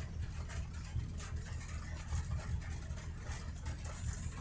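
Steady low road and engine rumble inside a moving car's cabin, with faint scattered ticks.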